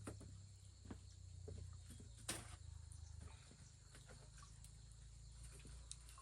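Near silence: faint outdoor ambience with a low hum, scattered light clicks and one sharper knock about two seconds in.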